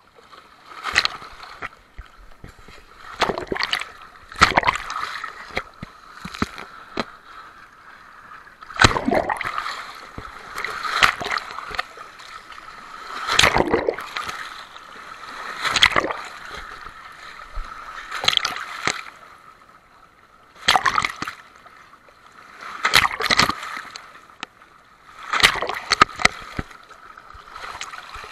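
Sea waves breaking and splashing, coming in surges every two to three seconds.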